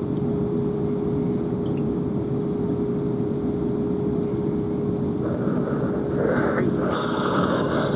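Cabin noise of a Class 444 electric multiple unit under way: a steady running rumble with a constant whine. About five seconds in, a higher hiss joins it.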